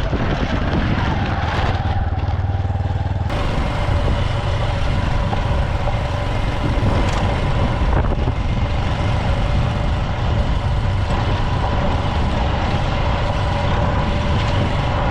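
Heavy diesel farm machinery, such as a combine harvester, running steadily: a constant low drone with a steady whine on top. The sound changes abruptly about three seconds in, as at a cut between shots.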